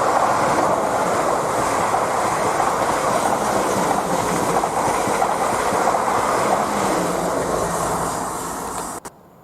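A train passing close by at speed: a steady rush of wheel and rail noise with some clatter. It cuts off suddenly near the end.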